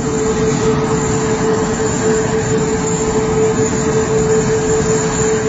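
Aircraft jet engine running steadily: a constant rushing noise with a steady whine.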